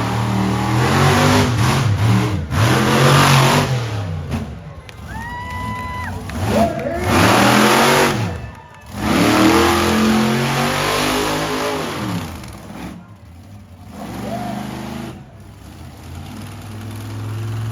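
Monster truck engine revving hard in repeated surges, its pitch climbing and falling with each burst of throttle. There is a brief steady tone about five seconds in.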